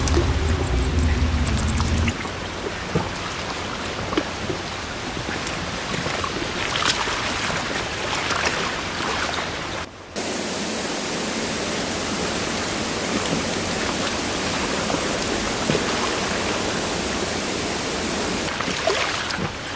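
Steady rushing hiss of water in a forest, with a low hum that stops about two seconds in. After a brief break near the middle, an even, unbroken hiss carries on.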